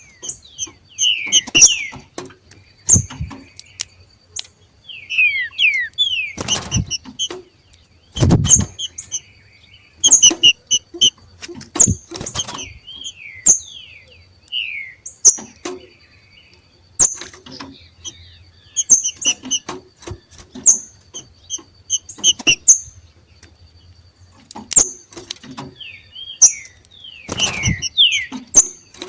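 Green-winged saltators (trinca-ferro) giving their 'macheado' call: bursts of short, high, squeaky chips mixed with quick falling whistled notes, repeated throughout, the excited call of birds coming into breeding condition. Several sharp knocks sound among the calls.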